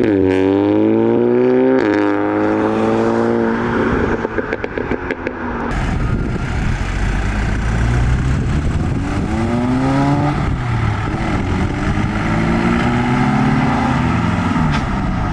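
Modified cars accelerating away, engine pitch climbing, dropping at a gear change about two seconds in, then climbing again, followed by a rapid run of exhaust crackles. After that, further cars pull away with rising revs.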